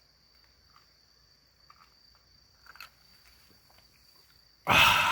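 A steady high-pitched insect call, with a few faint clicks. Near the end a man breaks in with a sudden loud, drawn-out 'ahh' of satisfaction.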